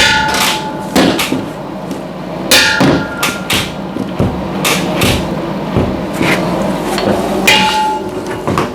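Hammer striking metal in irregular blows, roughly one or two a second. The hardest blows, at the start, about two and a half seconds in and near the end, leave a short metallic ring.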